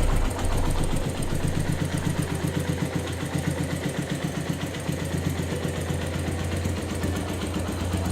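Motorcycle engine idling with a steady, even pulsing beat.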